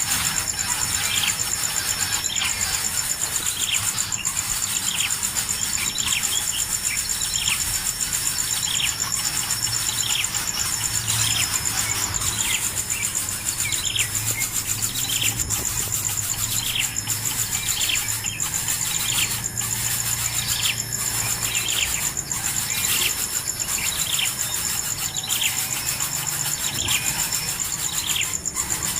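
Nestling birds' begging calls: a short, falling, squeaky call repeated about once a second, over a steady high-pitched whine.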